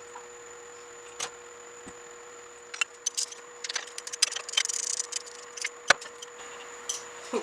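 Small metal clinks and rattles of tools or parts being handled: a scattered string of light knocks and jingles, with one sharp click about six seconds in, over a faint steady hum.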